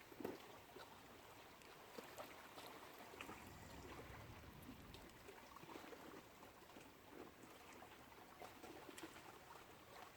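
Faint lake water lapping and trickling, with scattered small splashes and ticks.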